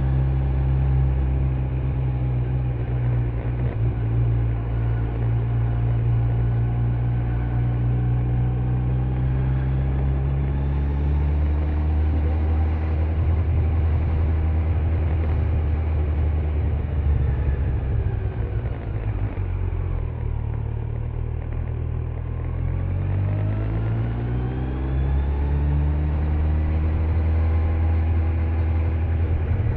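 Kawasaki Z900's inline-four engine with stock exhaust running under way, with road noise. The engine note eases down through the middle, dips about two-thirds through, then climbs again as the bike accelerates.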